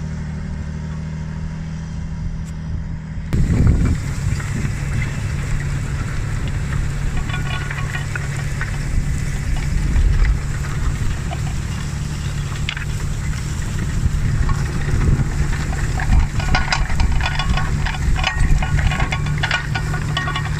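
John Deere 8530 tractor's six-cylinder diesel engine running steadily under load at around 1300 rpm while pulling a six-furrow plough. About three seconds in the sound changes abruptly to a fuller, brighter mix, and later a rapid rattling and clatter runs over the engine.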